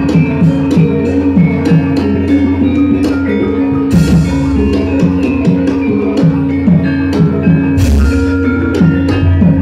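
Javanese gamelan music for wayang: a steady pattern of drum strokes that bend in pitch over ringing metallophone tones, with a heavier stroke and bright crash about four seconds in and again near eight seconds.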